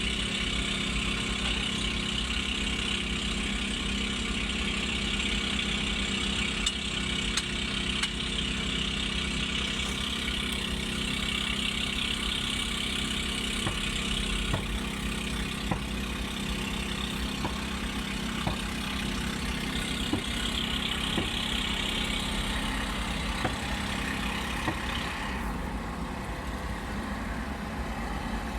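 Heavy construction machinery's diesel engines running steadily, with a few faint knocks; a higher hiss drops away near the end.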